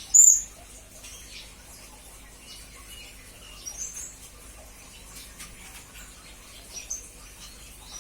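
Blue-crowned hanging parrot (serindit) giving short, high, thin chirps: a sharp loud one right at the start, then scattered quieter calls, with stronger chirps near four seconds and near seven seconds.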